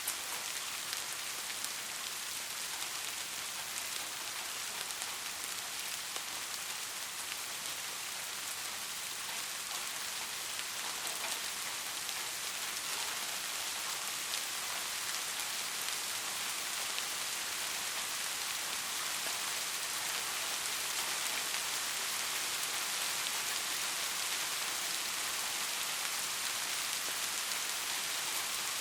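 Steady rainfall: a dense, even hiss of raindrops with fine individual drop ticks, mostly high in pitch, growing slightly louder in the second half.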